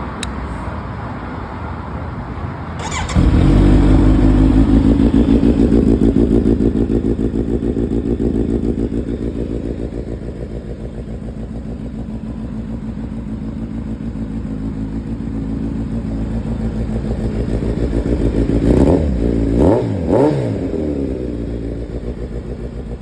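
Kawasaki Z900RS inline-four motorcycle engine with an aftermarket LeoVince exhaust, firing up about three seconds in. It runs at a fast idle that gradually settles lower. A few quick throttle blips come near the end before it drops back to idle.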